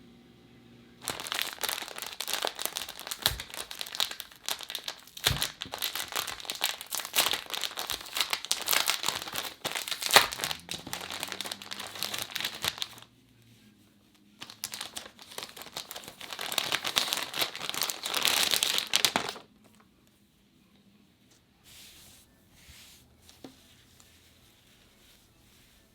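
Crinkly packaging being handled and crumpled, a dense crackling in two long stretches with a short pause between them.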